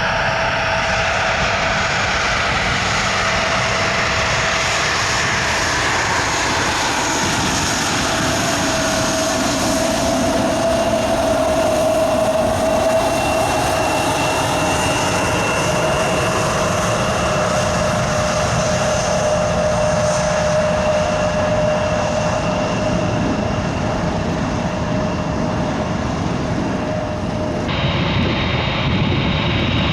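An airliner's jet engines as the plane passes close by: a loud, steady rush with a whine that slowly falls in pitch. The sound changes abruptly near the end.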